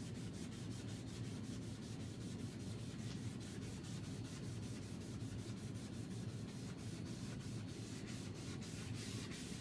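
Hand rubbing or wiping across a board surface, in quick, even back-and-forth strokes several times a second.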